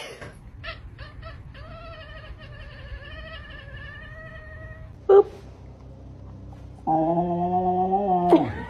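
A cat yowling: one long wavering higher call, a short sharp sound, then a louder, lower drawn-out yowl near the end.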